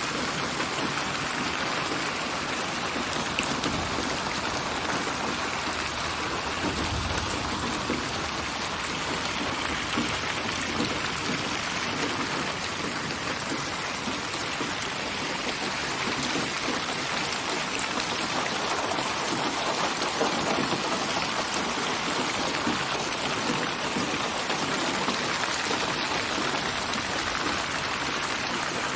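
Steady rainfall, a dense even patter of drops on a surface.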